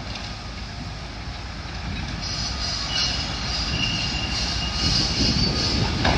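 Demolition excavator with a grapple attachment working on the building: a steady low rumble and crunching that grows louder, with a high metallic squeal setting in about two seconds in.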